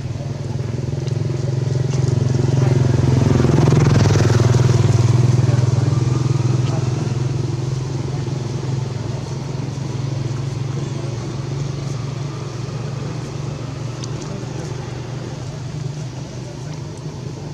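A motor vehicle's engine running steadily, growing louder to a peak about four seconds in and then fading, as a vehicle passes close by.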